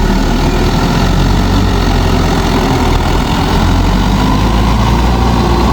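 Mahindra 585 DI tractor's diesel engine running steadily, with a deep, even drone.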